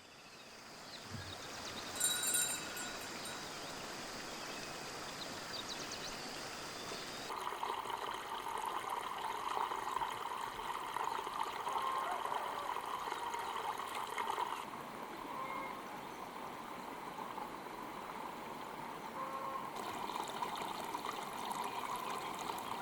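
Water trickling and flowing steadily, fading in at the start and shifting in tone a few times, with a brief high chirping sound about two seconds in.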